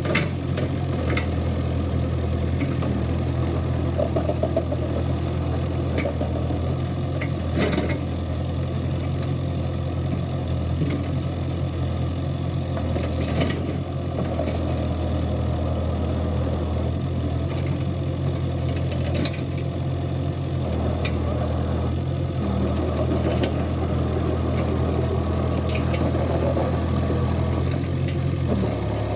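Kubota KX71-3 mini excavator's diesel engine running steadily, its low note shifting a little now and then, with a few scattered sharp knocks and clanks.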